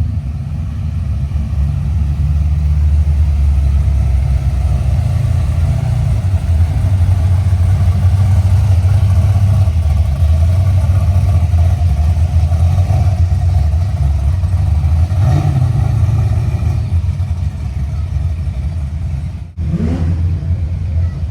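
Modified street cars cruising slowly past, with a loud, steady low exhaust rumble and some light revving. The sound cuts out briefly near the end.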